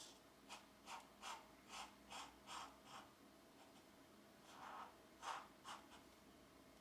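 Faint colouring-pencil strokes scratching on paper: a run of quick short strokes, about two to three a second, a pause, then a longer stroke and a few short ones near the end.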